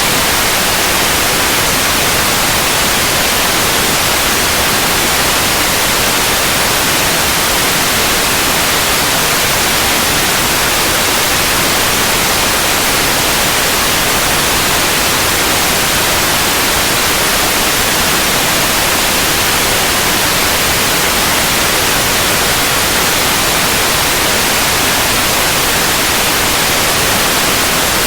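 Synthetic white noise: a steady, even hiss that does not change.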